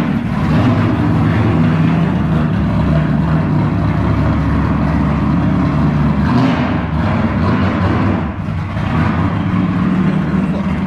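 LS V8 engine in a swapped Nissan 350Z idling steadily through a loud exhaust, with a slight dip in level about two-thirds of the way through.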